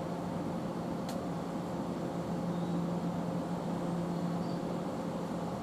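Class 345 electric multiple unit standing at the platform, its onboard equipment giving a steady electrical hum with one constant low tone. A single short click sounds about a second in.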